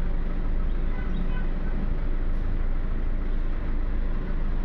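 Volkswagen Polo common-rail diesel engine idling steadily. By the mechanic's account it still knocks slightly after the new injector coding, a knock he expects injector adaptation to cure.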